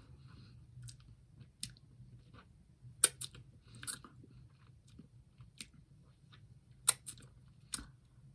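Close-up mouth sounds of someone eating a Magnum double caramel ice cream bar: biting and chewing, with scattered sharp clicks, the two loudest about three seconds and seven seconds in.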